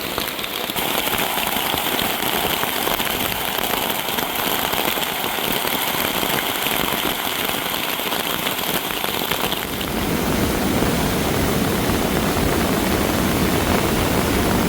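Steady rainfall hissing. About ten seconds in, a deeper, fuller rushing joins it and it gets a little louder.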